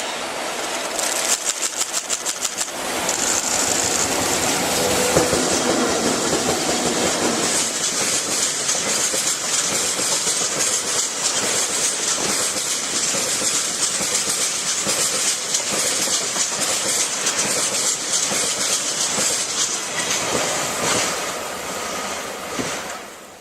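Freight train hauled by a pair of EF64 electric locomotives passing close by: a quick run of wheel clacks over rail joints about a second in, then the steady rolling rumble of the freight wagons going past.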